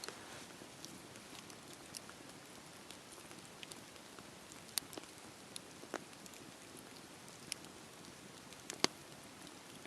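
Wood fire crackling: a steady hiss with irregular sharp pops and snaps, the loudest about nine seconds in.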